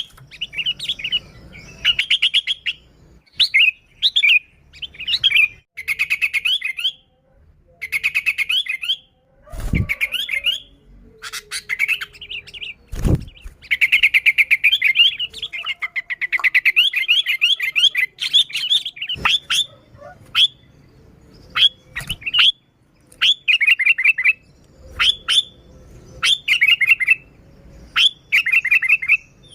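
Sooty-headed bulbul (kutilang) calling energetically in short, rapid chattering phrases repeated over and over. Two or three dull thumps come near the middle.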